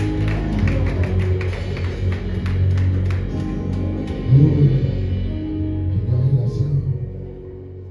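Live church praise music: drums keeping a steady beat under sustained keyboard chords. The drumming fades out about halfway through, leaving the held chords.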